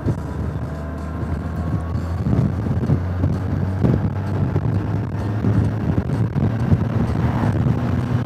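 Motorcycle engine running at a steady speed with wind buffeting the microphone. The wind gusts grow stronger about two seconds in.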